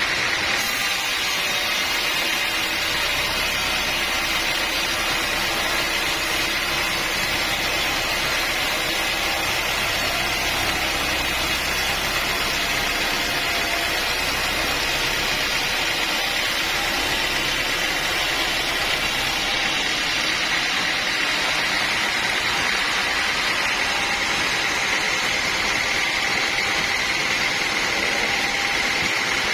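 Sawmill machinery running steadily, giving a continuous mechanical noise with a high steady whine, as a teak log is sawn.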